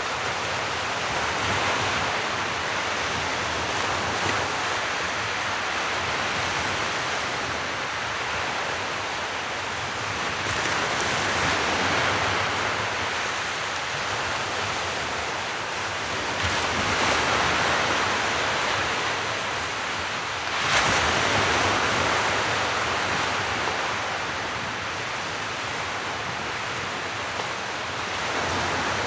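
Sea surf: a continuous rush of waves that swells every several seconds as each wave breaks and washes in, with one sharper break about two-thirds of the way through.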